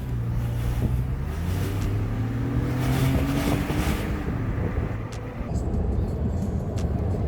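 Car engine running, its pitch rising for a couple of seconds in the middle as it accelerates, then an even low driving rumble.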